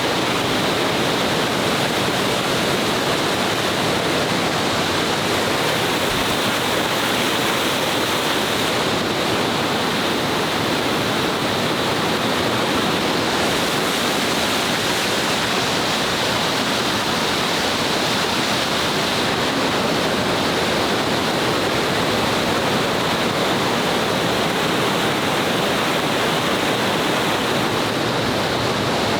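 Loud, steady rush of water from a jungle waterfall or stream, with no break or change.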